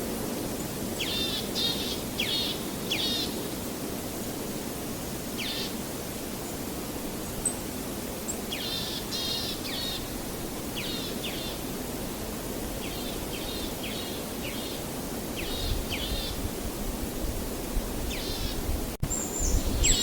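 Birds calling: groups of short, quick downward-sweeping chirps, repeated every second or two, over a steady low rushing background noise. Near the end the background briefly cuts out, then comes back louder.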